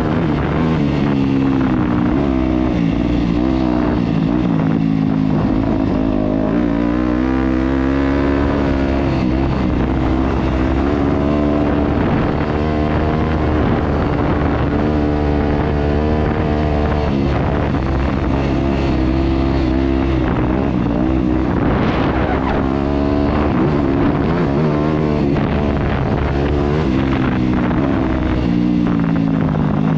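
Yamaha YZ250F dirt bike's 250cc single-cylinder four-stroke engine running hard, its pitch rising and falling repeatedly with the throttle and gear changes.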